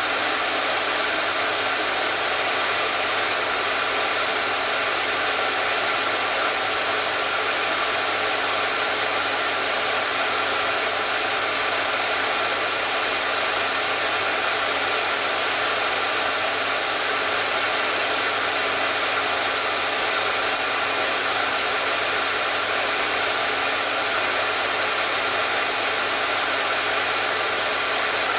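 Hair dryer running continuously with a steady, even rush of air and no change in speed or pitch.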